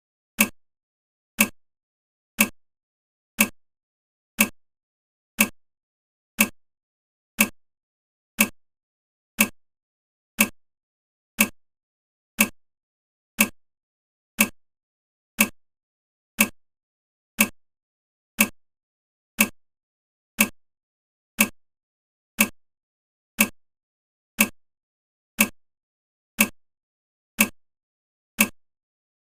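A steady ticking: one short, sharp tick about every second, each identical to the last, with silence between.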